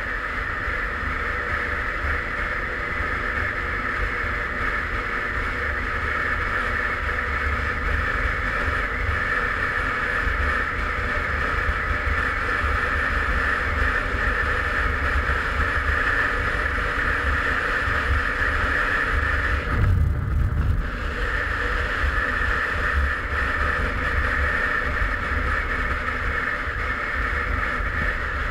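Derbi Senda Xtreme 50's small two-stroke engine running at a steady cruise, heard under heavy wind buffeting on the camera's microphone. About two-thirds of the way through, the engine note drops away for about a second while the wind rumble swells, then comes back.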